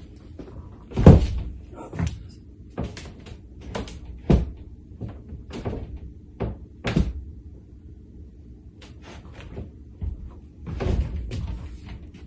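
Irregular wooden knocks and thuds from handling kitchen cabinets, about a dozen spread unevenly, the loudest about a second in.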